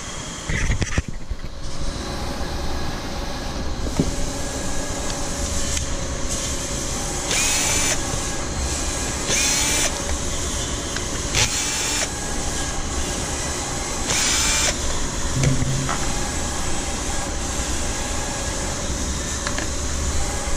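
Electric motor running with a steady hum, broken by several short bursts of hiss about every two seconds through the middle of the stretch.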